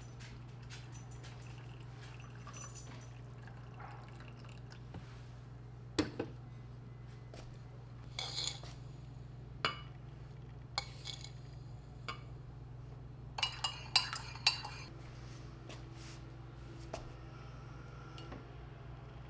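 Dishes and cutlery clinking and knocking now and then, in scattered sharp clinks with a tight cluster a little past the middle, over a steady low hum.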